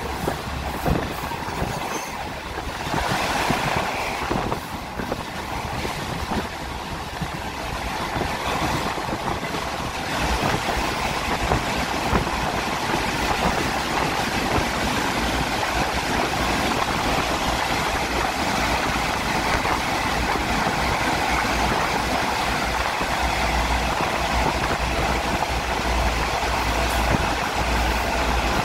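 A moving passenger train heard through an open coach window: a steady rumble and rattle of wheels on the rails, louder from about ten seconds in.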